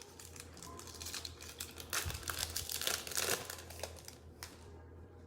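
Plastic trading-card pack wrappers crinkling and rustling as they are handled, loudest in the middle, over a steady low hum.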